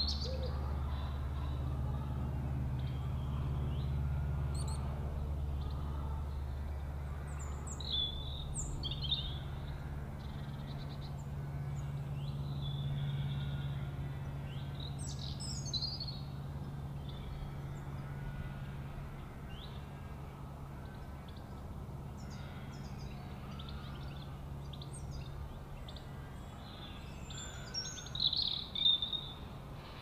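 Birds chirping with short, high calls scattered through, a few louder calls about eight seconds in, around sixteen seconds and near the end, over a steady low background rumble.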